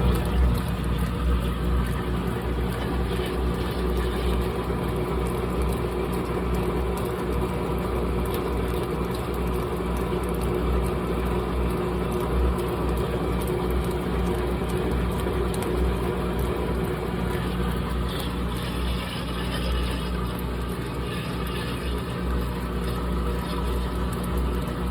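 GE top-load washing machine running with a heavy comforter load: a steady motor hum under the churn of the drum.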